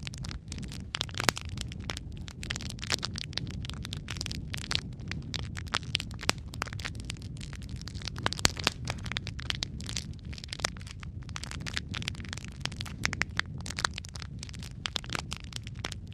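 Wood fire in a fireplace crackling, with frequent sharp pops and snaps over a low steady rumble of burning logs.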